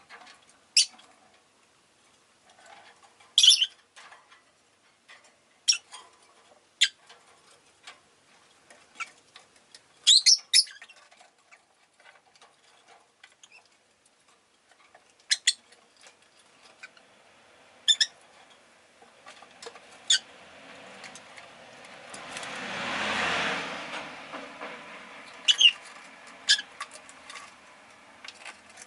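Rosy-faced lovebirds giving short, sharp, high chirps, scattered singly and in pairs. About two-thirds of the way through, a passing vehicle swells up and fades away under the chirps.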